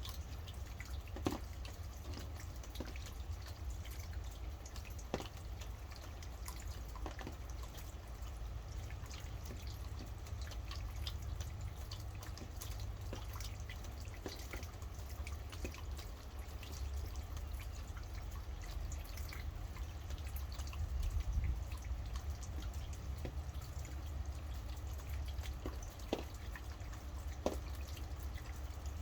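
Rain falling, with drops landing close by as scattered sharp taps over a steady hiss and a low rumble.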